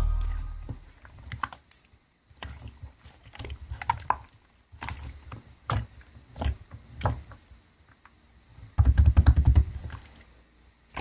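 Close handling noise: irregular soft clicks and low thuds with quiet gaps between them, and a denser stretch of crackling rustle about nine seconds in.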